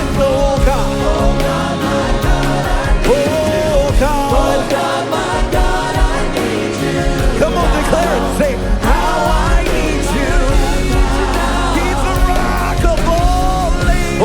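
Live worship band playing with a voice singing a melody over it.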